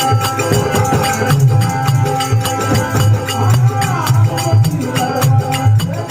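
Devotional folk bhajan music: dholak drum beats in a steady rhythm under jingling hand percussion, with a melodic line bending in pitch.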